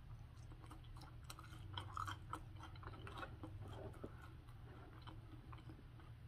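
Faint chewing of chili cheese fries, with soft, irregular mouth clicks.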